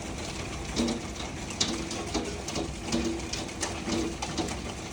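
Hailstones striking hard surfaces in irregular sharp knocks, about two a second, over a steady hiss of heavy rain.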